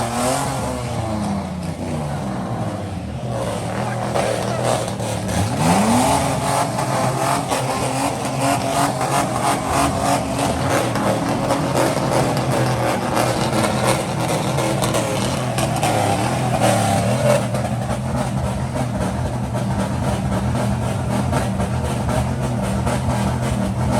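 Car engines with loud exhausts running and revving, one engine's pitch rising sharply about five seconds in.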